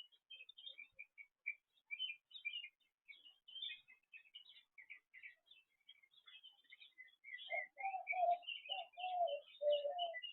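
Small birds chirping, with many short, quick notes overlapping. In the last few seconds a louder series of about six lower calls joins in, each falling a little in pitch.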